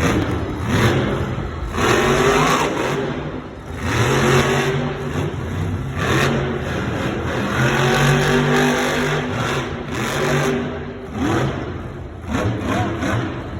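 Monster truck's supercharged V8 engine revving hard in repeated surges, its pitch climbing and falling between them, with brief lulls between throttle bursts.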